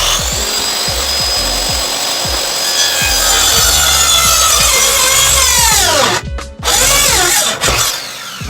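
Electric power saw running and cutting through a wooden framing board, a steady high whine over dense cutting noise; about six seconds in the motor is released and its whine falls away as the blade spins down, followed by a brief second pull of the trigger that also winds down.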